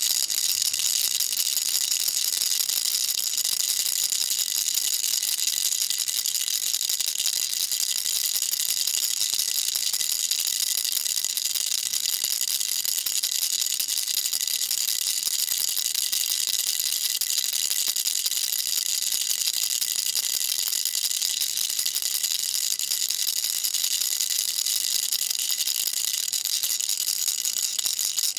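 Baby rattle shaken continuously, small beads inside clattering in a dense, steady, high-pitched rattle.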